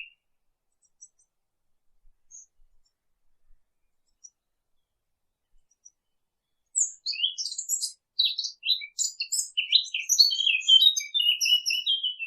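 Birds chirping in quick, high twitters. For the first six seconds or so there are only a few faint chirps; about seven seconds in, dense chirping starts again and keeps on.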